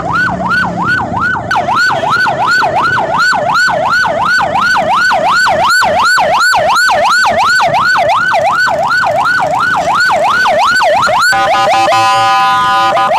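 Emergency vehicle siren sounding loud in a fast yelp, its pitch sweeping up and down about three times a second. Near the end it switches to a steady, horn-like chord.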